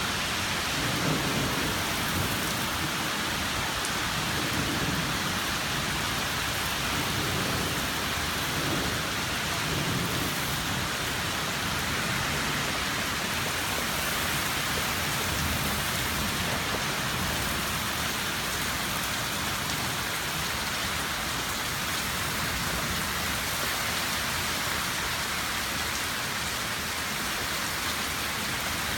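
Heavy rain falling steadily in a storm, with a low rumble of thunder during the first ten seconds or so.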